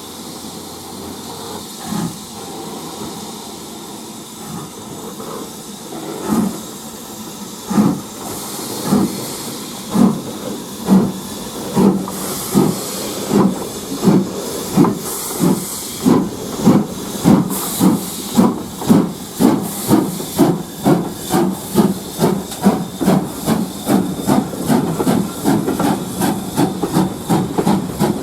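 Steam locomotive getting under way, its exhaust beats quickening from about one a second to two or three a second over a steady hiss of steam.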